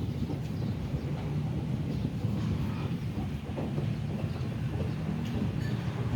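Wind buffeting the microphone: a steady low rumble that surges and dips unevenly.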